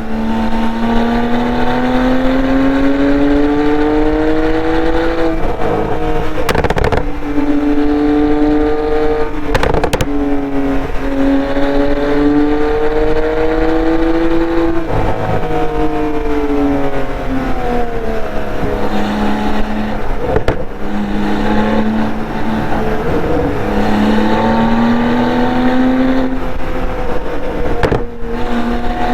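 2015 Porsche 911 Turbo S twin-turbo flat-six running through a SOUL Performance exhaust, pulling hard through the gears. Its note climbs in pitch, then drops at each of several quick gear changes, and some of the shifts bring a sharp crack. Toward the middle it settles into a lower, steadier note.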